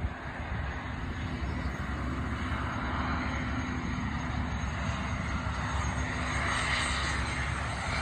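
Cessna Citation X business jet approaching to land, its two Rolls-Royce AE 3007 turbofans growing slowly louder as it nears, with a high engine whine coming in over the rumble near the end.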